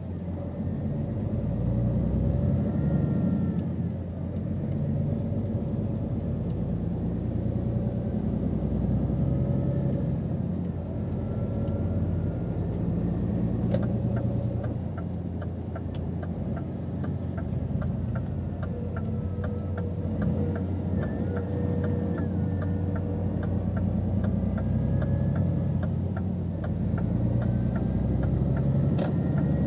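Scania R500 truck's straight-six diesel running on the road, heard from inside the cab as a steady low drone with road rumble. A faint regular ticking comes in about halfway through.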